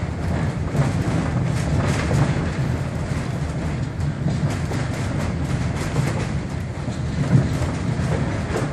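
A railway passenger car rolling along the track: a steady rumble, with irregular clicks and rattles from the wheels on the rails.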